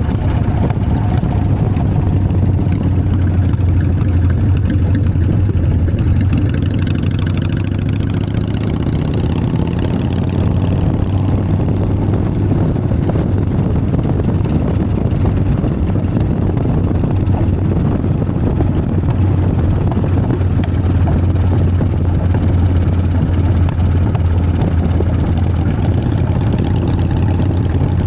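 Harley-Davidson Sportster's air-cooled V-twin engine running at a steady, unchanging pitch.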